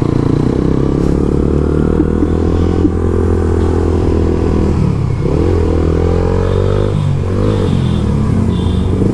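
Suzuki GSX-R150's 150 cc single-cylinder engine running under way through an aftermarket exhaust with its dB killer out, the revs rising twice, about five and seven and a half seconds in.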